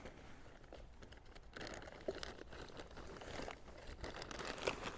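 Rustling, crinkling and small clicks of camping kit being handled and rummaged through.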